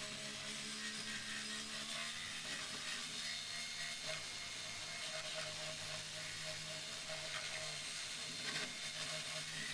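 A small power tool running steadily with a constant hum and hiss.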